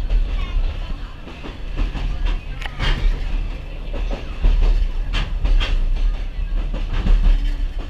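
Sagano sightseeing train running along the track: a steady low rumble from the carriage, with irregular sharp clacks of the wheels on the rails.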